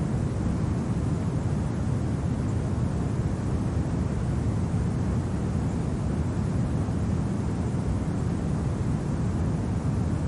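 Steady low winter wind, an even rumbling noise with no separate events.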